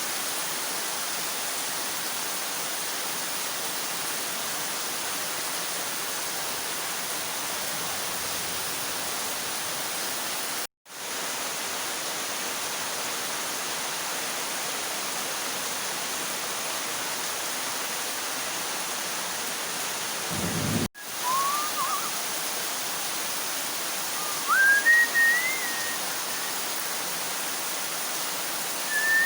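Heavy rain pouring down steadily, an even rushing hiss. The sound cuts out for an instant twice, and a brief low rumble comes just before the second cut. In the last third a few short rising high-pitched tones sound over the rain.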